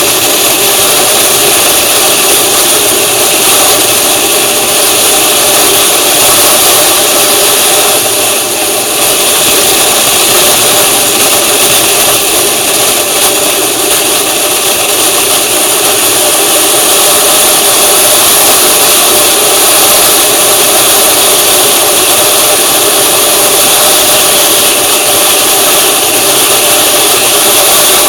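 Loud, steady running noise of a vehicle on the move, with engine and wind mixed together.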